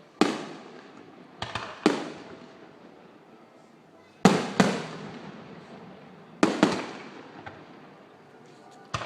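Aerial fireworks bursting overhead: sharp bangs every second or two, several coming in quick pairs, each trailing off in a rolling echo.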